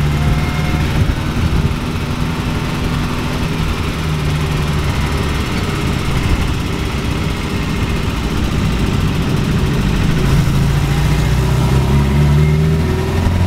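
1969 Ford Capri's Pinto four-cylinder engine running under way with road noise, its valve clearances freshly adjusted; the engine note grows louder and rises in pitch from about ten seconds in.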